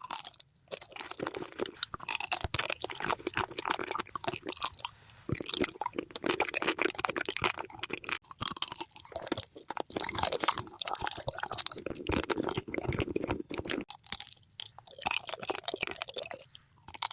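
Close-miked eating: a person biting, crunching and chewing food, a dense stream of sharp cracks and wet mouth clicks, with brief pauses between bites.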